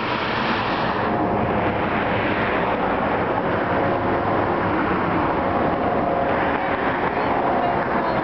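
Four turbofan jet engines of the Boeing 747 Shuttle Carrier Aircraft, carrying the Space Shuttle Endeavour, flying low overhead: a loud, steady jet roar with a faint whine in it.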